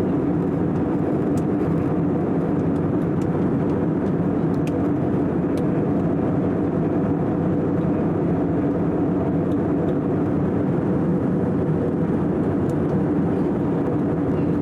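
Steady drone inside an airliner's cabin in flight: engine and rushing-air noise, even and unbroken, with a low hum running through it.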